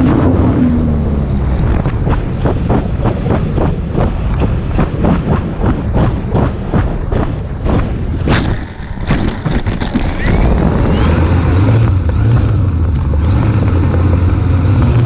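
The E-flite Air Tractor's electric motor and propeller winding down, its pitch falling over the first second. Then a steady run of short knocks, about three a second, that stops around the middle, and low wind rumble on the microphone near the end.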